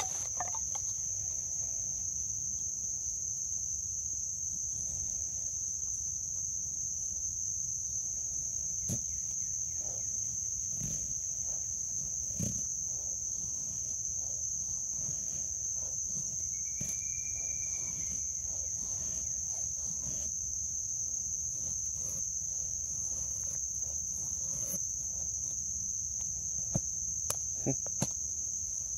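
Steady, high-pitched insect chorus droning without a break, with scattered faint clicks and a few sharper clicks near the end.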